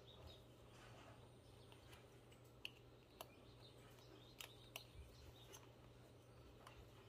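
Near silence with a low steady hum, broken by a handful of faint, sharp clicks in the middle seconds as fingers handle a Trangia B25 brass spirit burner and press on its wire-mesh insert.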